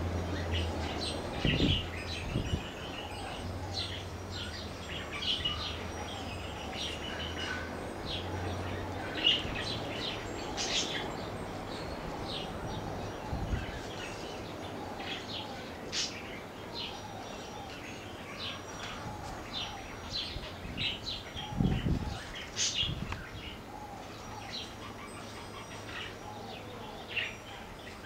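Birds chirping: many short, high chirps and twitters repeating. A low hum runs under the first third, and a few dull low thumps stand out.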